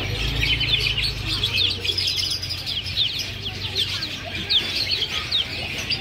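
Songbirds chirping in a dense, unbroken stream of short, high notes that sweep downward.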